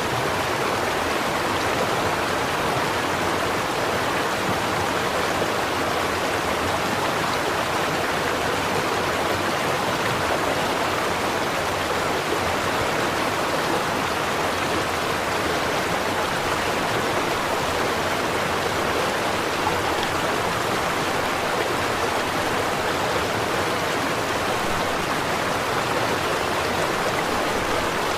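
Stream water running and burbling steadily over rocks, an even rushing with no breaks or changes.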